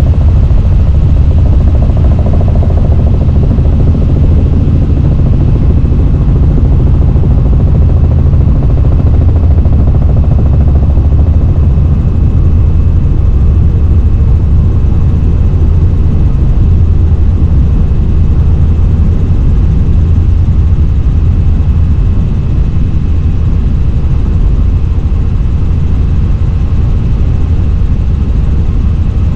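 Helicopter in flight: a loud, steady low rumble of rotor and engine.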